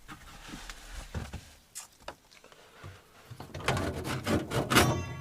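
Rustling, clicks and knocks of things being handled, sparse at first, then busier and louder from about three seconds in.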